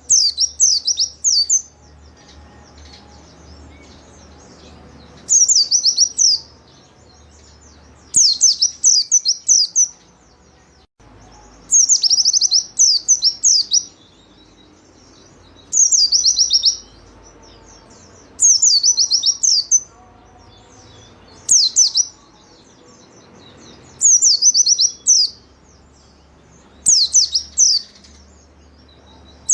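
White-eye (pleci) singing in full voice: short bursts of rapid, high, down-slurred chirps, about one phrase every three seconds, over a faint low hum.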